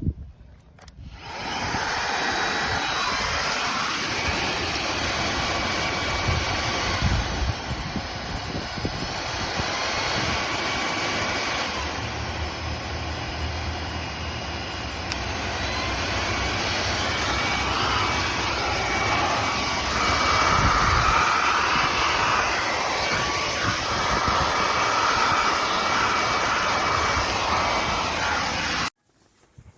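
Cordless stick vacuum cleaner running steadily, a loud even motor whoosh with a faint whine, starting about a second in and cutting off suddenly near the end.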